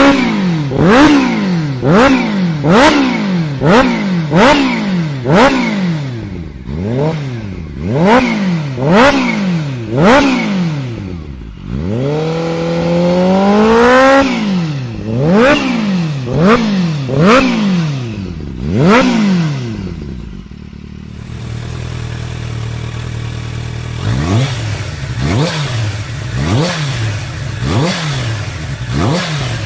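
Kawasaki H2's supercharged inline-four engine and exhaust being revved in quick repeated blips, engine speed rising and falling about once a second, with one longer climb midway. Near the end it drops to a steady idle broken by shorter blips.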